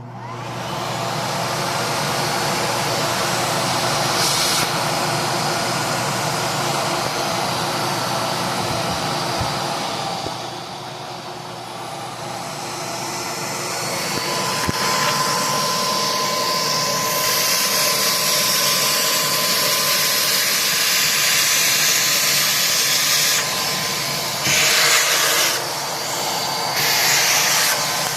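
Miele Classic C1 canister vacuum cleaner switched on and running, its motor spinning up over about a second into a steady rushing noise. It dips quieter for a couple of seconds about a third of the way in, then a steady whine joins, with a few brief louder surges near the end.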